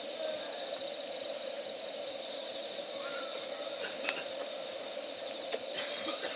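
Wood fire burning down: a steady hiss with a few small sharp crackles and faint squeaky whistles from the burning wood.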